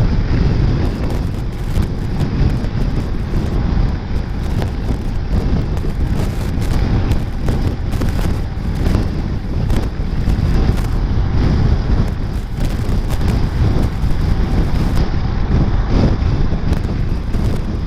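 Wind buffeting the microphone on a moving scooter, a loud, steady rumble with constant flutter and the ride's low drone underneath.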